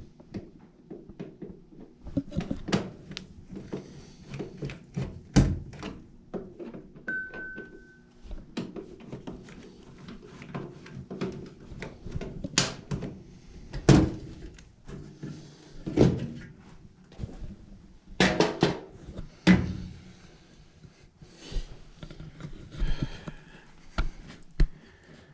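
Repeated knocks and clunks as a furnace cabinet and its parts are handled, over a steady low hum. A brief high beep comes about seven seconds in.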